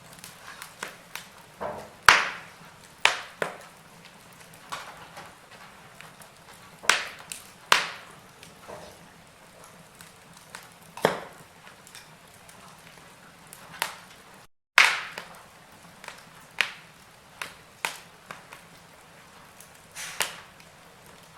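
Wood fire in a fireplace crackling: irregular sharp pops and snaps, a few much louder than the rest, over a faint steady hiss. The sound cuts out completely for a split second about two-thirds of the way through.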